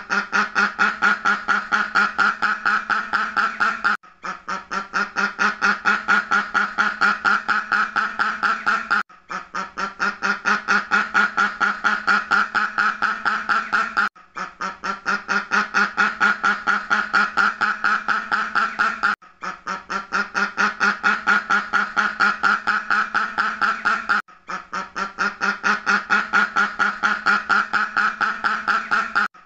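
A duck quacking rapidly and evenly, about five quacks a second, in runs of about five seconds that each build in loudness, with a brief break between runs.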